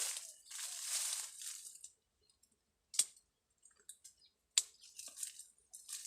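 A short burst of rustling, then two sharp clicks about a second and a half apart and a few faint ticks, with rustling picking up again near the end.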